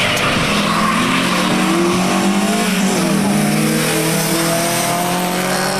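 Two VW Golf Mk II hatchbacks accelerating flat out in a quarter-mile drag race, their engines revving hard and rising in pitch through the gears as they pass.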